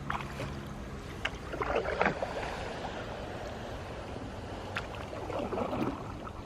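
Canoe paddle strokes dipping and splashing in lake water, several irregular splashes over a steady wash of water and breeze.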